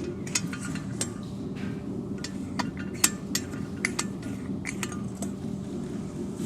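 Irregular metallic clinks and taps, as of tools and metal parts handled during a repair, over a steady low hum.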